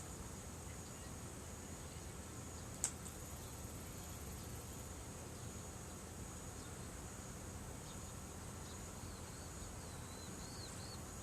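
Insects trilling steadily at a high pitch, with one sharp pop about three seconds in, typical of firewood popping in a bonfire. Faint wavering chirps come in near the end.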